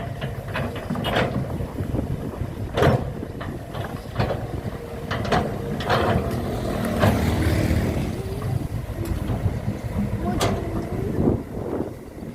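Construction machinery at work: an engine running with a low rumble, swelling about halfway through, under irregular sharp knocks and clanks.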